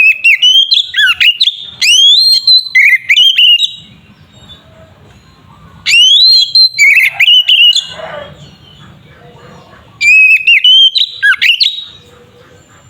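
Oriental magpie-robin (kacer) singing loud, whistled phrases of rapid rising and falling notes. It sings in three bursts of about two to four seconds each, with pauses of about two seconds between them.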